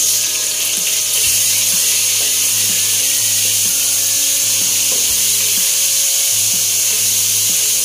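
Chopped tomatoes sizzling in hot oil in a wok with shallots and garlic: a steady frying hiss that grows a little louder about a second in.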